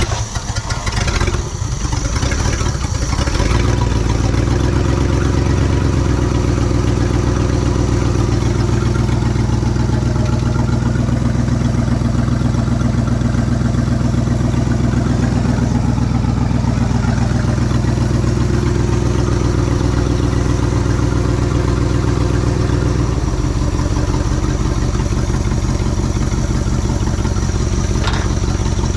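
A 1967 Ford F100's FE big-block V8 starting for the first time after sitting more than 20 years, running on straightened pushrods. It runs unevenly for the first few seconds, then settles into steady running and drops to a slower idle about two-thirds of the way through.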